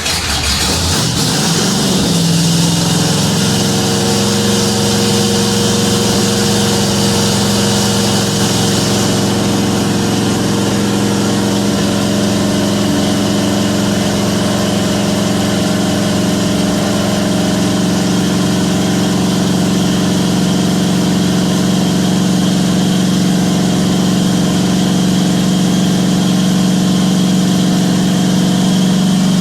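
Ford big-block 460 V8 running steadily just after a cold start, its pitch settling a couple of seconds in. The engine has no choke on its Holley Street HP carburetor, which made it harder to start cold.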